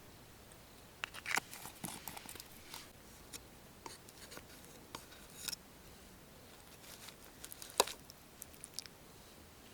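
Scattered small clicks, taps and rustles, as of objects being handled, with one sharper click about eight seconds in.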